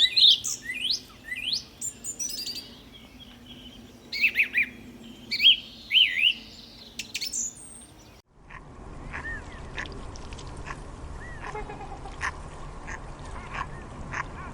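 Birds calling loudly in quick sweeping chirps and whistles. About eight seconds in the sound cuts to a steady background hiss with sparser, fainter calls.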